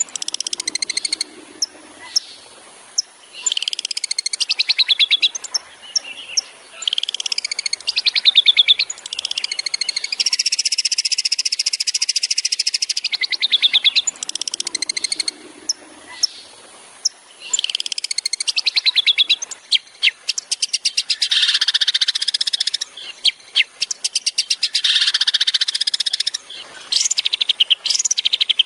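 Long-tailed shrike (cendet) singing a varied, high song of fast rattling trills, rapid-fire bursts and short sweeping notes, broken by brief pauses.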